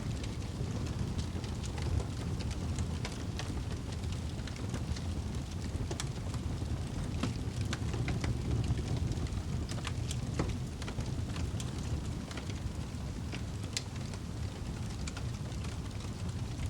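Wood fire burning in a fireplace: a steady low rumble of flames with many small, scattered crackles and pops.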